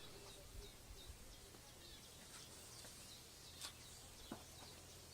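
Faint background bird chirps, short and repeated, over a low steady hum. A couple of faint clicks come in the second half.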